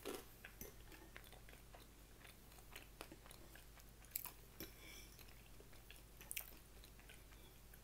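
Faint chewing and mouth clicks of a person eating, with a couple of slightly louder clicks about 4 and 6 seconds in.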